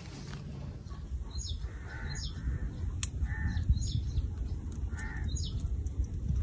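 A bird calling several times, short calls a second or two apart, over a low rustling rumble of the net and branches being handled.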